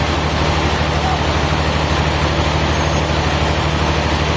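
A heavy engine running steadily at an even speed, with a low hum and no change in pace.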